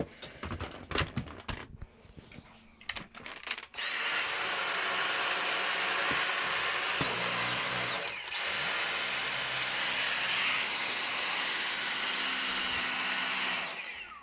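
A few handling clicks, then about four seconds in a Dyson Animal cordless stick vacuum starts with a high motor whine and runs steadily. It cuts out for a moment about eight seconds in, starts again with a higher-pitched whine, and switches off near the end.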